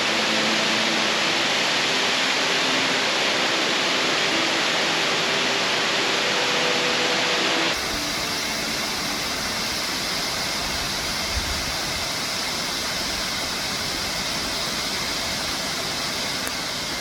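Steady rush of falling water from Upper North Falls, a 65-foot waterfall. A little under halfway through, the sound cuts abruptly to a slightly quieter, duller rush.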